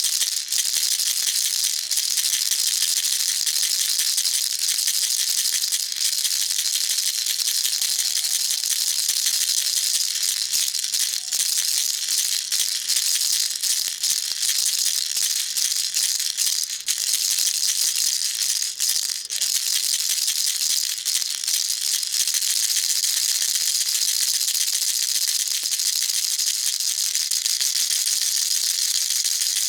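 Baby rattle shaken continuously, beads rattling in a fast, even, high-pitched patter without pauses.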